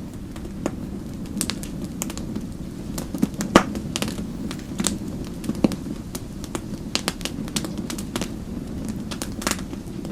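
Fireplace fire crackling: irregular sharp pops and snaps over a steady low rush, the loudest pop about three and a half seconds in.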